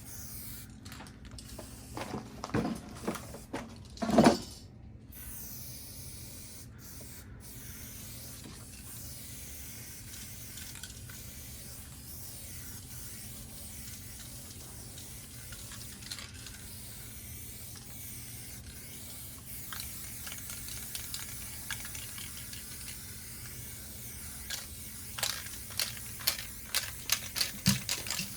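Aerosol spray paint can hissing in long, steady sprays. A few knocks come a few seconds in, and a run of quick clicks comes near the end.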